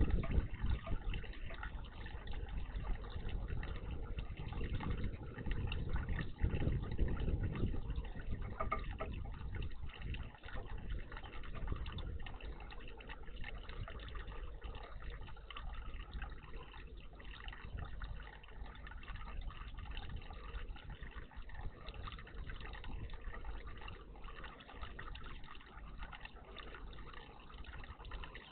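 Water splashing and trickling in a garden bird bath, a continuous wash that is louder for the first several seconds and then settles to a steadier, quieter trickle.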